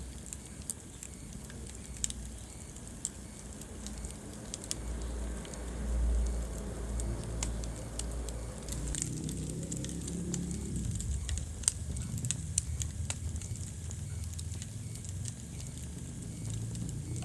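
Wood fire burning in a fireplace: irregular sharp crackles and pops over a low, steady rumble of flames, swelling briefly about six seconds in.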